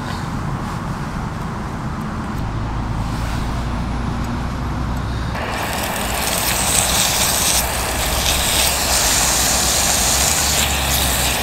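Marinated chicken pieces frying in a hot pan: a sizzle that jumps up suddenly about halfway through, as the pieces are spread across the pan, and stays loud. Under it, the steady low rumble of road traffic.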